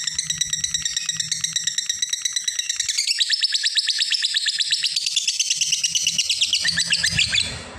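Lovebird giving its long 'ngekek' chatter: a rapid, unbroken string of shrill notes, about a dozen a second. The pattern shifts about three seconds in, and the call cuts off near the end.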